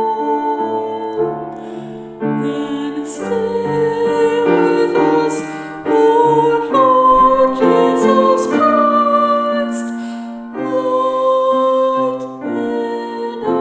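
A slow, meditative Taizé chant sung over a keyboard accompaniment, with long held notes changing about once a second.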